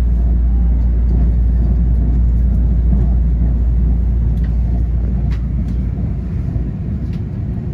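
EMU3000 electric train running, a steady low rumble with a few faint clicks. The deepest part of the rumble eases off about six seconds in.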